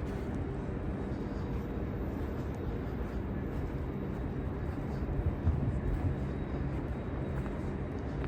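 Steady low rumble of vehicle engines and traffic on a city street, with a faint constant hum and no sharp events.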